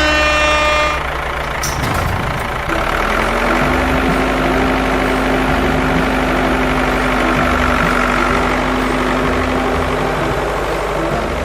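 Heavy vehicle's engine running steadily with a held low hum.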